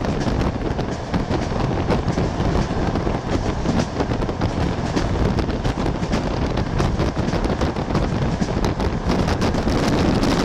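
Passenger train running at speed: a steady rumble from the wheels on the rails, with dense rattling and clicking throughout.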